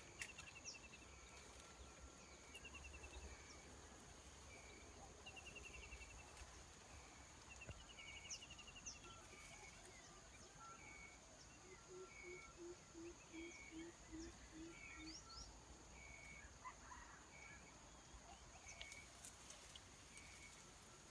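Faint outdoor ambience of birds calling: a short high chirp repeated roughly once a second, with a few quick trills early on. Midway there is a run of about eight low notes in quick succession.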